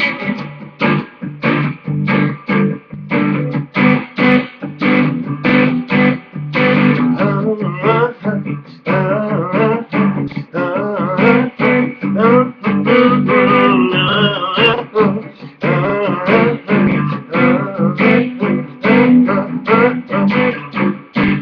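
Guitar playing an instrumental break: a steady rhythm of picked and strummed chords, with a melodic line wavering above it.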